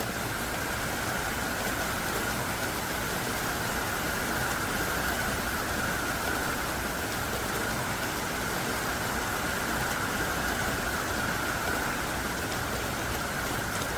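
Heavy downpour of thick, hard-falling rain, a steady dense hiss with no let-up.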